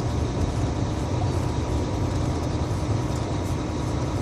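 Semi truck cruising at highway speed, heard from inside the cab: a steady low drone of engine and tyre noise.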